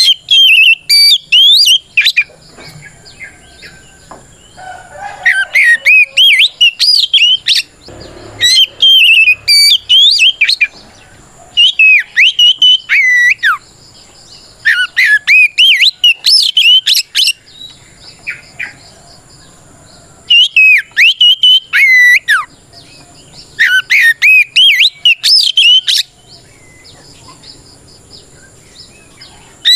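Oriental magpie-robin singing a loud challenge song of the kind used to call out a rival: repeated bouts of rapid, varied whistled notes sliding up and down, each bout two or three seconds long, with short pauses between them.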